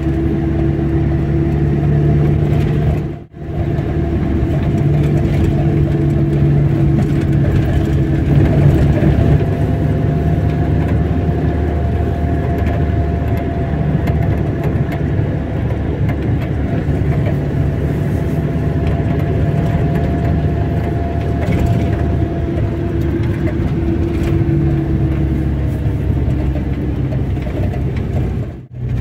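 A car driving at steady speed: engine hum and road noise, with no big changes in pitch. The sound drops out briefly twice, about three seconds in and near the end.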